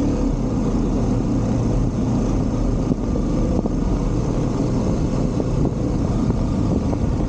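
Motorcycle running steadily at cruising speed, a constant low engine drone under road and wind noise.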